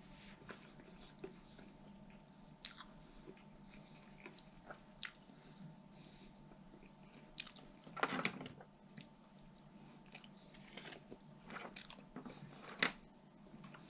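A person chewing and crunching mouthfuls of fast food, with scattered small mouth clicks. A louder noise comes about eight seconds in, and a sharp click near the end.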